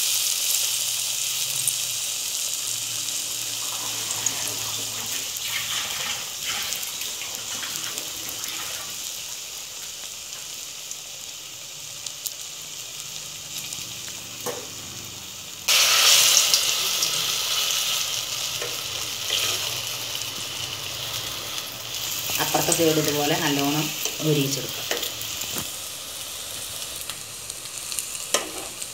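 Batter-coated stuffed plantain frying in a pan: a steady sizzle that slowly dies down, then comes back loud about halfway through.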